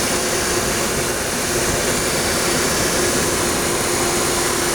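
Electric radiator cooling fan of a 2004 Suzuki Karimun spinning fast over the idling engine, a steady whoosh with a steady hum under it. The fan is running normally, with no sign of the engine overheating.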